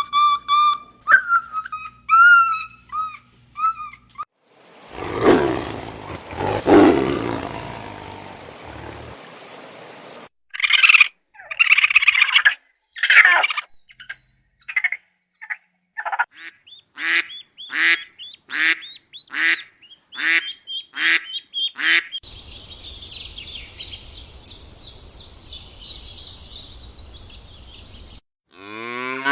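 A run of different animal calls, one clip after another. It opens with pitched whistle-like calls, then a noisy stretch, then a series of short repeated calls, and ends in a dense chorus of bird chirps.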